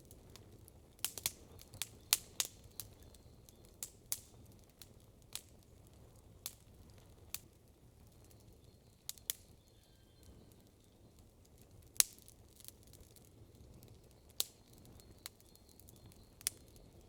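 Wood campfire crackling, with sharp, irregular pops from the burning logs; the pops come thick in the first few seconds and the loudest comes about twelve seconds in.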